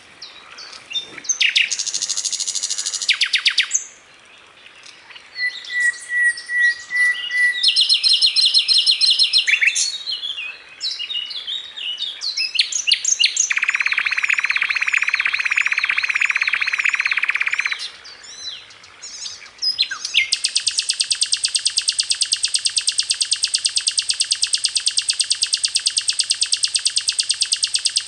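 Songbird song from a bird-training recording: a run of varied high chirps and short trills, then from about twenty seconds in a long, fast, even trill of rapidly repeated notes.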